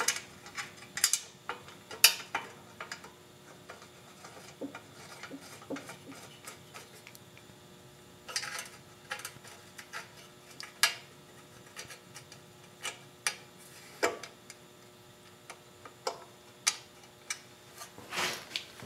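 Hand tools clicking and clinking on metal while the rear bolts of a lawn mower's engine shroud are fitted and tightened: scattered sharp clicks with a few quick runs of ticking.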